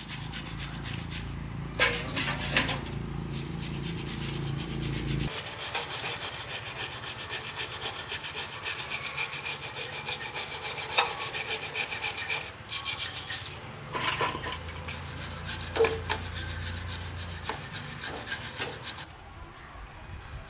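Fast, even rubbing strokes of hand sanding or scrubbing during restoration work, with a few sharp knocks. A low hum under it stops suddenly about five seconds in.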